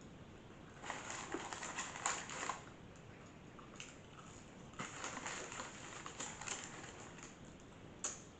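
Crunchy chewing of fast food, heard as two bouts of crackly crunches with a single sharp crunch near the end.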